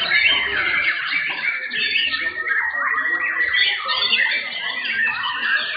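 Many caged white-rumped shamas singing at once in a contest, a dense tangle of fast overlapping warbles, trills and sliding whistles with no pause, one held whistle standing out through the middle.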